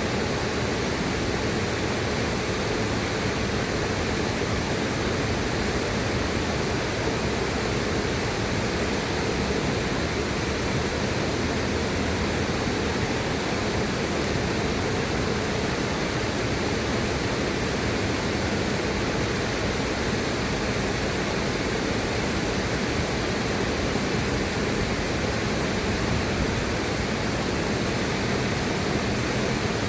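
River water rushing, a steady, even hiss spread from low to high with no changes.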